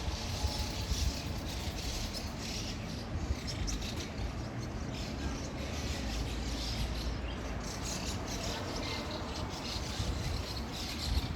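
A flock of birds gathered in a tree, chirping busily and continuously, many calls overlapping, over a steady low rumble.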